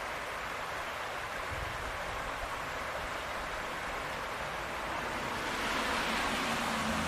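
Steady hiss of a rain-wet street, swelling about five and a half seconds in as a vehicle approaches on the wet road.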